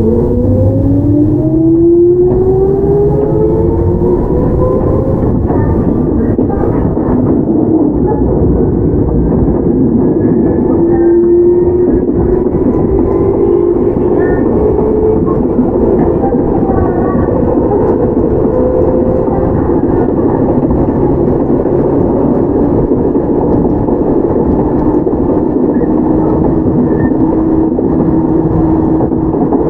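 Onboard running sound of a Toyama Chiho Railway 17480-series motor car, an ex-Tokyu 8090 with field-chopper control. The traction motors whine and rise in pitch as the train accelerates over the first five seconds or so, then settle into a steady tone under constant rail and wheel rumble while it cruises.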